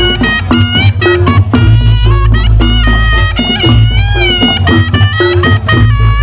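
Reog Ponorogo music: a slompret (reedy shawm) plays a bending, wavering melody over drums and gongs, with heavy, steady low bass.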